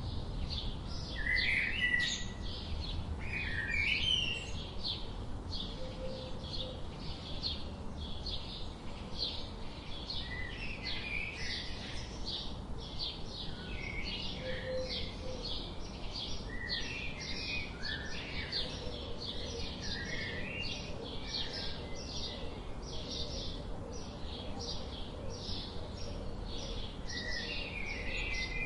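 Birds chirping, with scattered short calls over a steady run of high, quick pulses repeating about two or three times a second.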